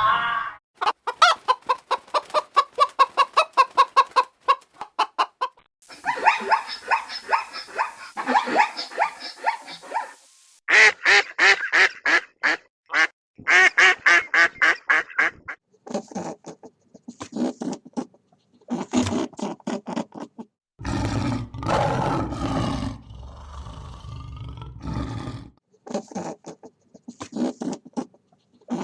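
Ducks quacking in quick repeated series of several calls a second, in stretches broken by short gaps. A low rumbling noise runs under the calls for a few seconds after the middle.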